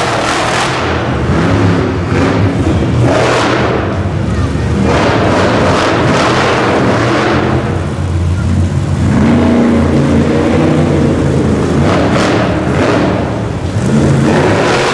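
Monster truck engine revving loudly, swelling and falling again and again.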